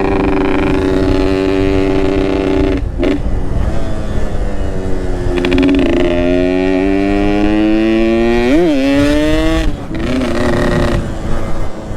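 Yamaha RX-King two-stroke motorcycle engine with a Boban aftermarket exhaust, under way. It holds a steady note, drops briefly about three seconds in, then climbs steadily in pitch as it pulls through a gear. A quick rev spike comes just before the note breaks off near the end, as at a gear change.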